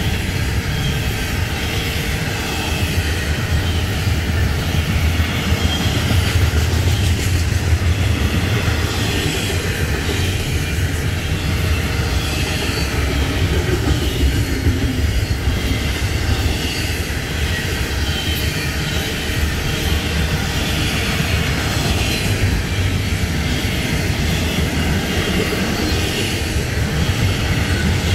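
Double-stack intermodal freight train's loaded container well cars rolling by, a steady rumble of steel wheels on the rails.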